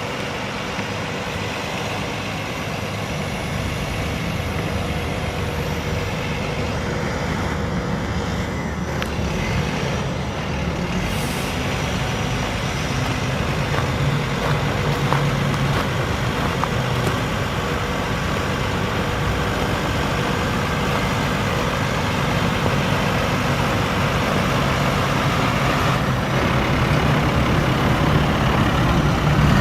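International DT466 inline-six turbo diesel engine of a 2005 International 7300 truck running steadily, slowly getting a little louder.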